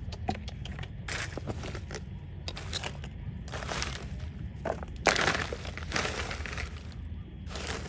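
Irregular crunching and scraping of dry material, in several strokes of different lengths, the longest and loudest about five seconds in, over a steady low rumble.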